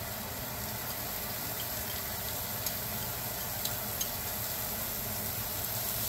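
Portobello mushrooms frying in hot olive oil in a pan: a steady sizzle with a few faint ticks.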